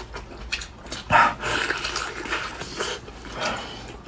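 Close-up eating sounds: wet chewing and sucking on braised ostrich-foot meat, with a few sharp clicks and a louder slurp about a second in.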